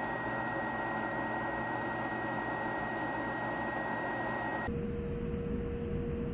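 Snyder General GUA gas furnace running with its combustion chamber cover off, the flame rolling out the front: a steady rushing noise with a thin high whine. About three-quarters of the way through, the sound cuts abruptly to a slowed-down version of itself, much deeper and duller, as in slow-motion playback.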